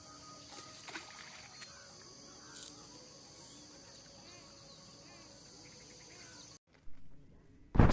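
Steady high insect drone with small chirping calls over it, which cuts off abruptly near the end, followed by a single loud thump.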